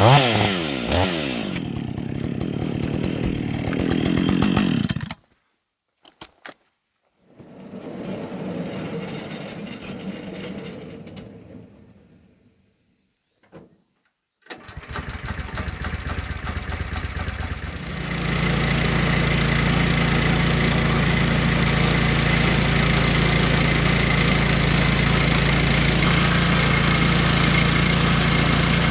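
A chainsaw winding down from high revs, its pitch falling over the first few seconds. After two short silences, an engine starts with an uneven pulsing and settles at about 18 s into a steady, even run.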